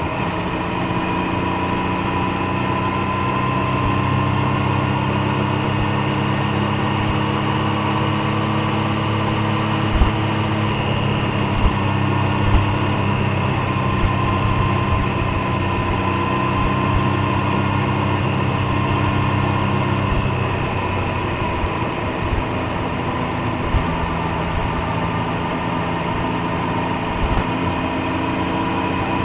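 Triumph Street Triple 765 Moto2 Edition's inline three-cylinder engine and exhaust running under way at fairly steady revs. The pitch dips slightly about twenty seconds in, and a few brief knocks come around the middle.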